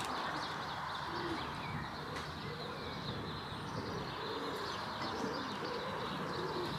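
Racing pigeons cooing repeatedly, low rolling coos over a steady rush of wind.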